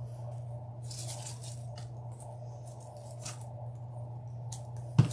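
Artificial floral picks and wreath materials rustling and crinkling in short bursts as they are handled and tucked into a grapevine wreath, over a steady low hum. Two sharp knocks near the end.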